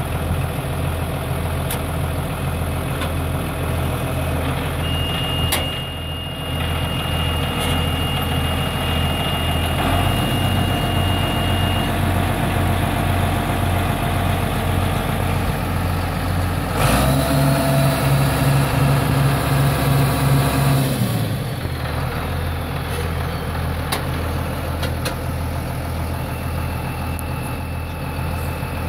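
John Deere 6603 diesel tractor engine idling steadily, revved up for about four seconds around two-thirds of the way through, then settling back to idle.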